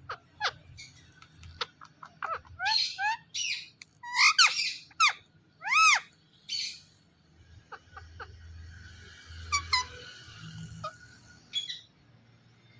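Ringneck parrot calling: quick clicks, then several loud arching whistled calls that rise and fall in pitch, then a softer raspy chatter near the end.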